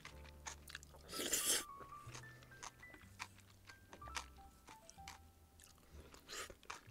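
A person chewing and biting crunchy food close to the microphone, with a louder crunch about a second in and another near the end. Quiet background music with a simple melody plays underneath.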